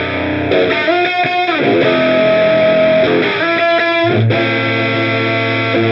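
Overdriven electric guitar playing sustained chords and short phrases through an Olinthus Cicada, a miniature recreation of the Ibanez TS808 Tube Screamer overdrive pedal.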